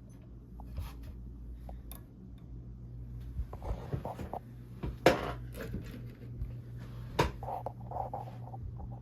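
Vintage Emerson Electric 16-inch table fan: a steady low electric hum with scattered clicks and knocks, two sharp clicks about five and seven seconds in.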